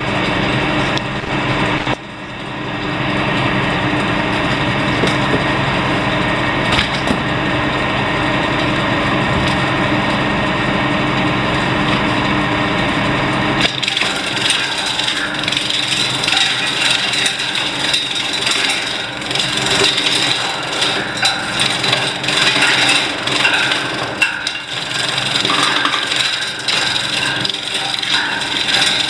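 Wood-shaving machine, driven by an 11 kW motor, running with a steady hum; a little under halfway through the sound turns harsher and more uneven as wood is fed in and cut into shavings.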